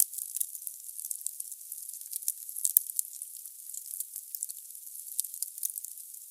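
Wood fire in a fireplace: logs crackling and popping irregularly over a soft hiss, with one sharper crack just before the middle.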